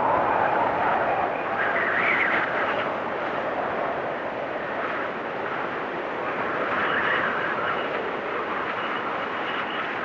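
Blizzard wind blowing in gusts, swelling and rising into a higher howl about two seconds in and again about seven seconds in, with a faint thin whistle above it.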